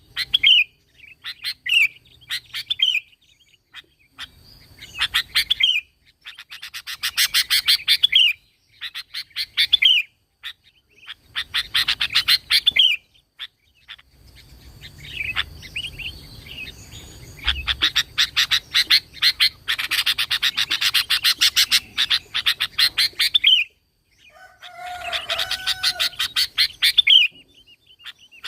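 Sooty-headed bulbul (kutilang) singing: short bursts of rapid chattering, many ending in a falling note, repeated every second or two, with a longer unbroken chatter about two-thirds of the way in.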